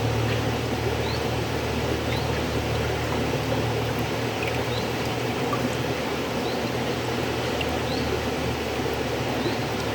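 River water flowing steadily: a continuous rushing noise with a low rumble underneath, at an even level.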